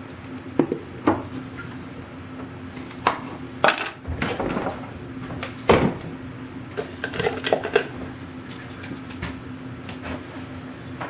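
Small metal objects being handled, making irregular sharp knocks and metallic clinks about a dozen times, over a faint steady hum.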